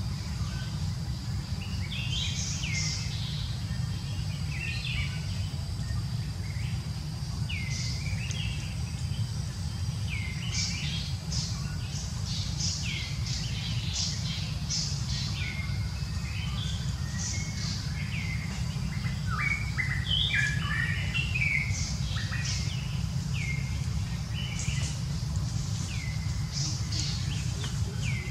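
Birds chirping: short, hooked calls repeated every second or two, with a busier run of them in the middle, over a steady low rumble.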